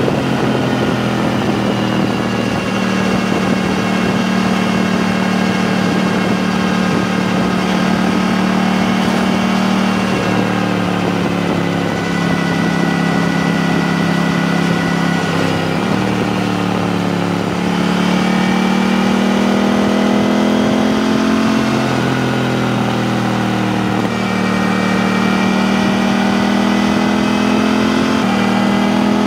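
KTM 890 Duke R's parallel-twin engine, breathing through an HP Corse Evoxtreme exhaust with its dB killer fitted, running under way on the road. Its pitch climbs slowly and steps down sharply several times as the rider shifts or rolls off the throttle.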